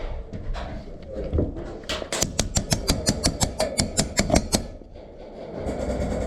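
Airsoft gun firing a rapid string of sharp shots, about six a second for nearly three seconds, starting about two seconds in. Before and after it there is shuffling and rustling of gear.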